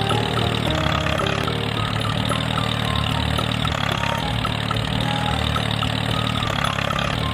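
A small engine or motor running steadily at an even speed, with a fast, regular pulse and light repeated ticking.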